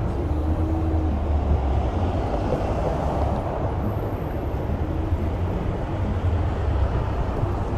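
Steady low rumble of traffic on a busy city street, heard while walking along it.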